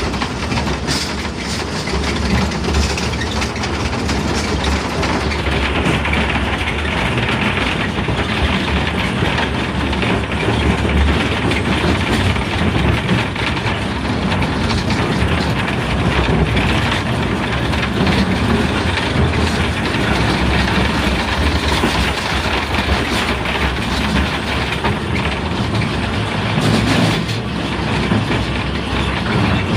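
Rail cars running along track with a steady rumble and clatter.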